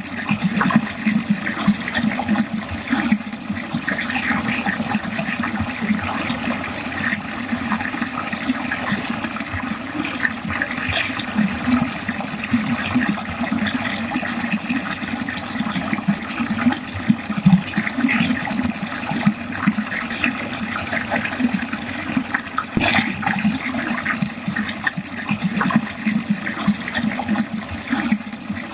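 Water pouring steadily into a drain, a continuous gurgling rush with one brief sharper splash about 23 seconds in.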